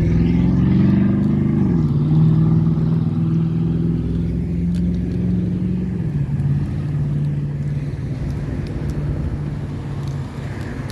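A motor vehicle's engine running nearby, a steady hum that drops in pitch twice, about two seconds in and again about six seconds in.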